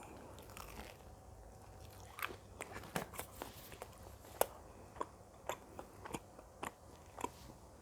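Close-miked chewing of Pizza Hut cheese garlic bread: a string of short, sharp mouth clicks and bites, about two a second, starting about two seconds in.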